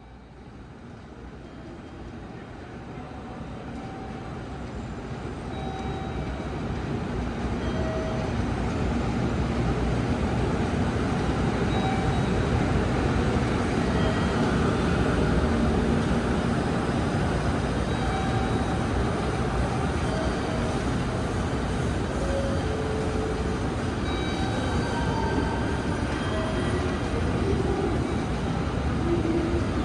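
A train approaching along a station platform. It grows steadily louder over about the first ten seconds, then runs on at a steady level with a dense rolling rumble.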